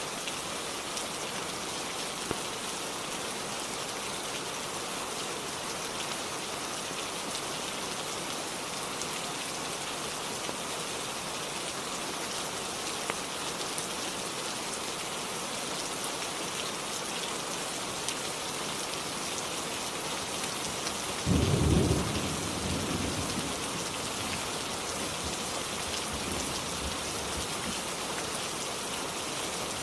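Steady rainfall with a single thunderclap about two-thirds of the way through, which rumbles away over a couple of seconds.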